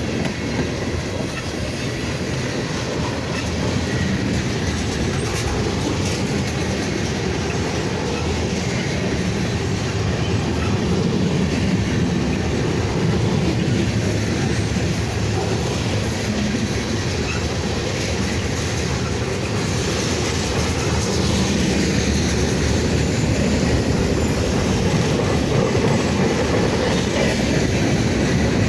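Freight cars of a slow manifest train rolling past, with a steady rumble and wheel clatter over the rail joints and faint wheel squeal.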